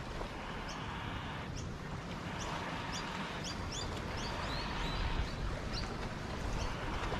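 Small birds chirping in quick, short high notes, busiest around the middle, over a steady rush of outdoor background noise.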